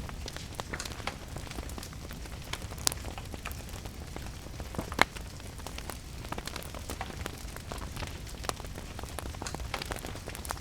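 Wood fire crackling, with scattered sharp pops, the loudest about five seconds in, over a steady hiss of rain.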